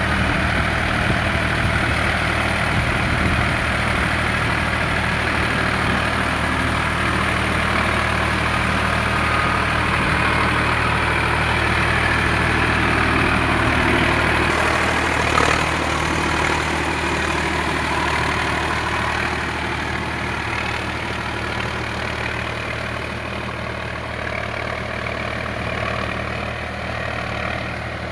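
Sonalika RX 47 4WD tractor's diesel engine running steadily, growing gradually quieter over the last several seconds. A single brief knock comes about halfway through.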